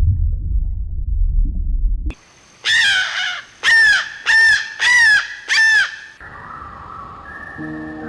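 A low rumble for about two seconds, then a bird calling five times in quick succession, each call short and arched in pitch. Soft music comes in after the calls.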